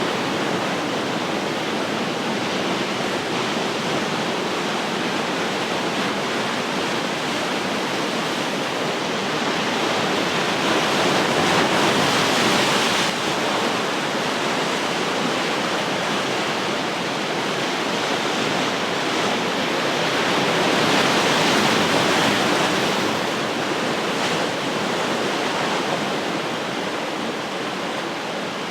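Ocean surf washing ashore as a continuous rush of water, swelling twice as waves break, about ten seconds apart.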